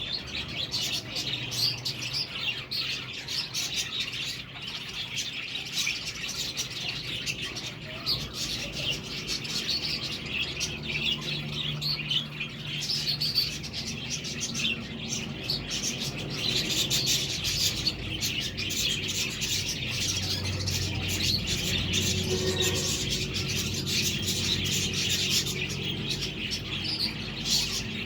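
Budgerigars chirping and warbling in a steady, dense stream of chatter, with a faint low hum underneath.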